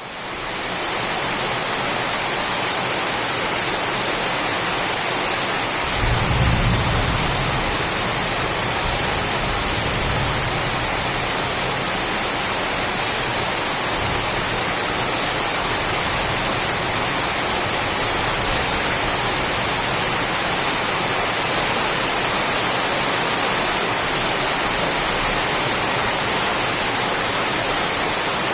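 Heavy rain falling steadily on coconut palms, a constant hiss that fades in at the start. About six seconds in a low thunder rumble swells and dies away over several seconds.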